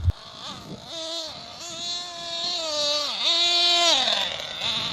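Ansmann Hogzilla nitro RC monster truck's glow engine revving, its high-pitched whine rising and dropping several times as the throttle is worked, with a sharp click right at the start.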